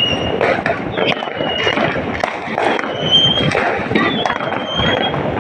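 Dense crackling of firecrackers and fireworks going off all around, with many sharp pops, a few thin high whistling tones and people's voices mixed in.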